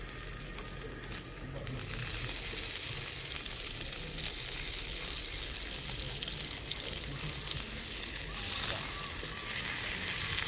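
Tomahawk pork chop sizzling as it sears on a grill over a wood-and-charcoal fire: a steady frying hiss that grows a little louder near the end.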